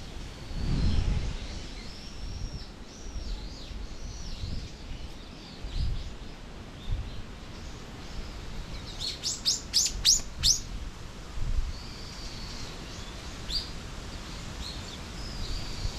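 Small songbirds chirping: repeated short curved chirps, then a little past halfway a quick run of about seven sharp, falling notes, the loudest part, followed by more scattered chirps. Low rumbling bumps sit underneath.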